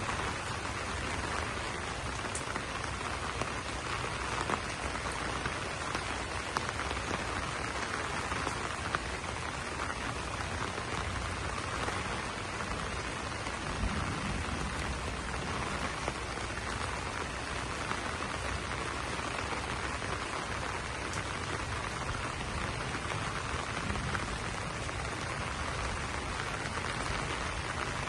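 Steady rain pattering on broad banana leaves, an even hiss of drops with a few sharper individual drop taps here and there.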